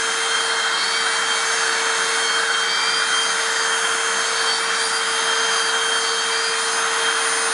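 Hoover WindTunnel Self-Propelled upright vacuum (model U6485900) running steadily through its hose with the air-turbine pet hair turbo brush attached, the brush spun by the suction airflow. It makes an even rush of air with a steady motor whine.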